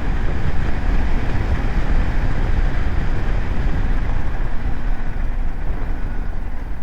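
Steady wind rush and road noise from a BMW G 310 GS motorcycle on the move, heavy in the low end, with no clear engine note standing out.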